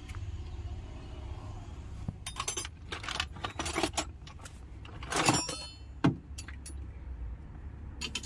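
Metal engine parts and hand tools clinking and clattering as they are handled, a series of sharp knocks with the loudest about five seconds in. A steady low hum runs underneath.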